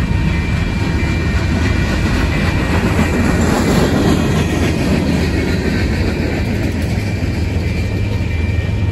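A train rolling by: a steady, loud low rumble with the noise of wheels on the rails.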